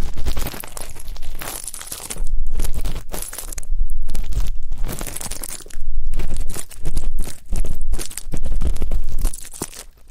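ASMR ear-cleaning sounds on a close microphone: scratchy scraping and rustling in bursts of one to two seconds with short breaks, dying down near the end.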